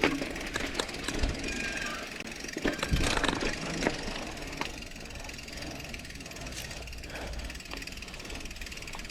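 Mountain bike rattling and clattering over a rough narrow dirt trail, with scattered clicks and knocks, a few short squeaks, and a heavier clatter about three seconds in.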